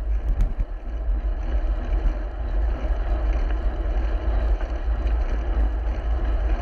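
Wind rumbling steadily on a GoPro's microphone as a road bike is ridden through rain at night, with an even hiss of wet road and rain noise over it.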